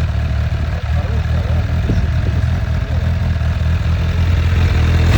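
Suzuki motorcycle engine idling steadily, getting a little louder near the end.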